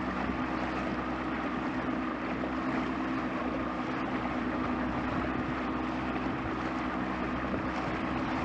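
Bass boat's outboard motor running steadily at trolling speed, a constant engine hum over water and hull noise.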